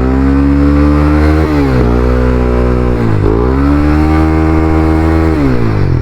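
Honda CBR300R's single-cylinder engine accelerating through the gears: its pitch climbs, drops at an upshift about a second and a half in, climbs again, drops just after three seconds, then climbs once more and falls away near the end.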